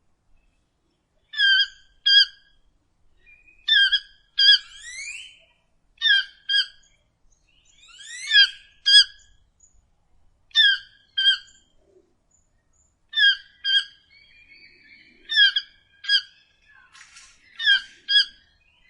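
Toucan calling: short croaking notes, mostly in pairs, repeated about every two and a half seconds, with a few rising sweeping notes between them.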